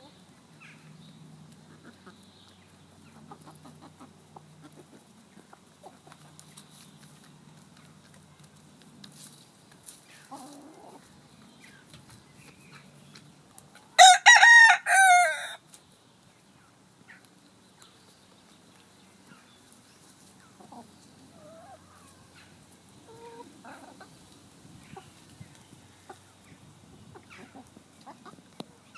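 A rooster crows once, loudly, about halfway through, a single call lasting about a second and a half. Otherwise there is only faint, scattered clucking from chickens.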